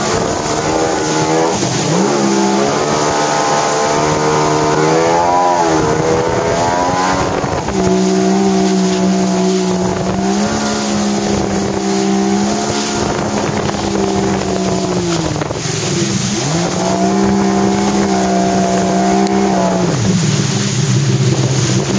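Jet ski engine running loud, its pitch rising and falling as the throttle is opened and eased off several times, settling back to a lower, steady pitch near the end.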